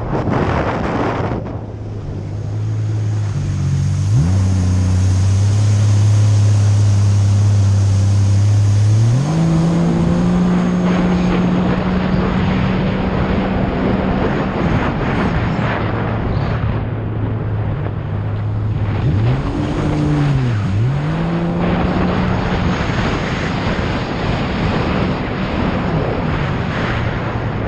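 Supercharged Sea-Doo jet ski running hard with a steady engine drone over wind and water rush. Its pitch climbs about nine seconds in as it speeds up, then drops sharply and climbs back around twenty seconds in as the throttle is eased and reopened.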